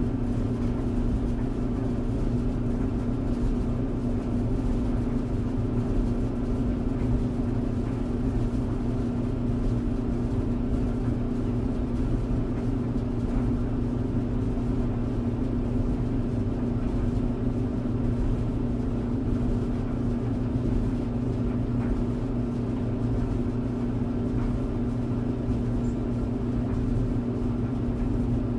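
Clothes tumble dryer running: a steady motor hum with a low rumble from the turning drum, unchanging throughout.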